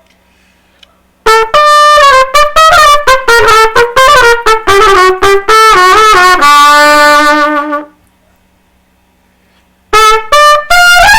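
Trumpet playing a quick phrase of short tongued notes that step downward, ending on a long held low note. After a pause of about two seconds it starts again with more short notes near the end.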